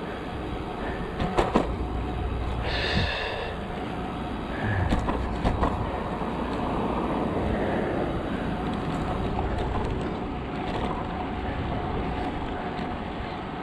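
Steady rumble of wind and traffic heard from a moving bicycle, with a few sharp clicks about a second and a half in and a short high tone about three seconds in.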